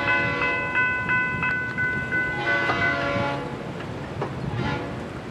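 A bell ringing rapidly with quick even strokes, then a diesel locomotive's multi-chime horn sounding a held chord from about halfway through.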